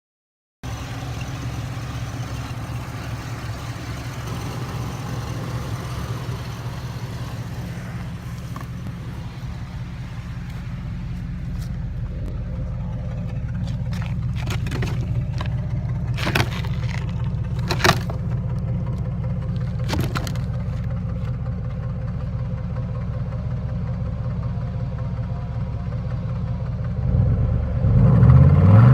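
Truck engine running steadily at idle, showing that it runs. A few sharp knocks come around the middle, and the engine gets louder in the last couple of seconds.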